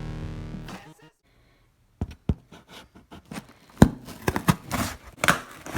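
Electronic music fades out in the first second, and after a short silence hands start working at a package: a quick run of knocks, taps and rustling of packaging as it is pulled open.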